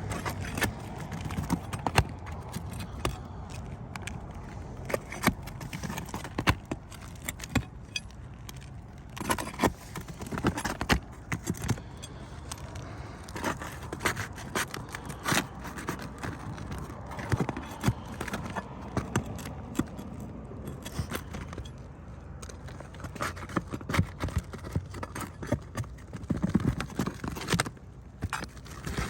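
Asphalt shingles being pried loose and roofing nails pulled with hand tools: irregular scraping, with sharp clicks and knocks.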